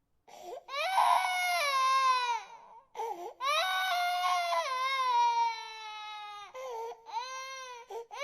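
Infant crying: long wailing cries that fall in pitch at the end of each breath, with short gasping breaths between them.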